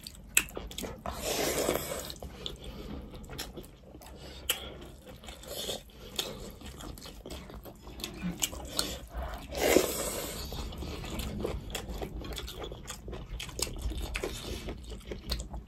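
Close-up eating sounds of two people chewing mouthfuls of rice and fish eaten by hand: wet smacking and small clicks throughout, with two louder, longer noisy swells about a second and a half in and about ten seconds in.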